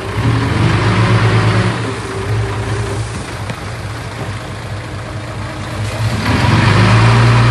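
Heavy diesel engine running under load, louder in the first two seconds, easing off, then rising again from about six seconds in.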